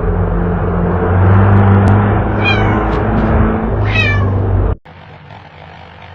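A kitten meowing twice, short high calls falling in pitch, over a loud steady low hum. The sound cuts off suddenly near the end, leaving only a faint hiss.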